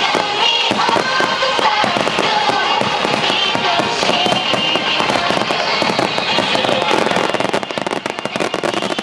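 Rapid, continuous bursting of aerial firework shells and star mines, many bangs and crackles overlapping, with music playing throughout. The barrage thins briefly near the end.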